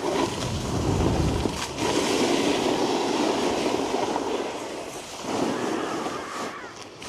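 Snowboard sliding over packed snow, its base and edges scraping, with wind rushing over a body-worn microphone. The scraping swells for a few seconds, eases, then picks up again.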